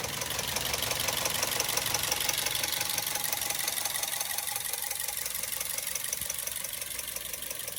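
Toyota Corolla GLI engine idling with a fast, even ticking from the valve train: tappet noise, which the mechanic means to cure by adjusting the tappets under the tappet cover.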